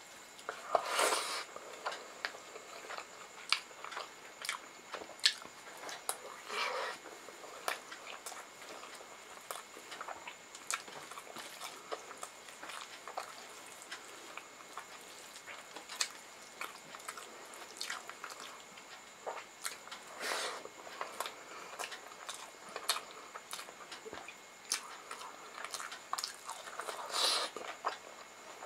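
Close-up eating sounds of rice and curry eaten by hand: soft wet chewing and small mouth clicks throughout, with a few louder lip smacks now and then, and the squish of fingers mixing rice.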